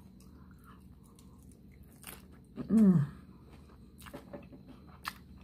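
A mouthful of hard taco shell being chewed, with a few sharp crunches, and a short hummed 'mm' about three seconds in.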